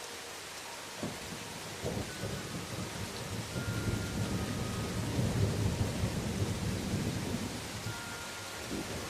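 Steady rain falling on forest leaves, with a roll of thunder: a crack about a second in and another a second later, then a low rumble that swells and fades away near the end.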